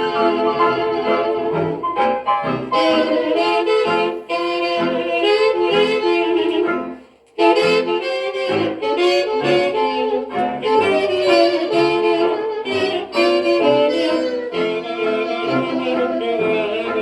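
Hot jazz band playing an instrumental chorus with saxophone and brass leading, played back from a record copy. The music drops out for a moment a little after seven seconds, then comes straight back in.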